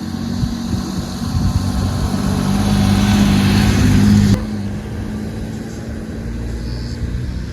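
A motor vehicle's engine running while on the move, with a steady low hum that grows louder over the first four seconds. It changes abruptly about four seconds in to a quieter engine sound.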